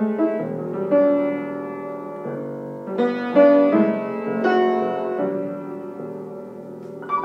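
Keyboard playing sustained minor ninth chords a step apart, moving between E minor 9 and F sharp minor 9, with the chord changing several times.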